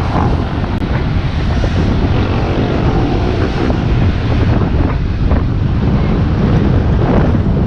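Loud, steady wind noise buffeting the microphone of a camera carried on an electric bike moving at riding speed.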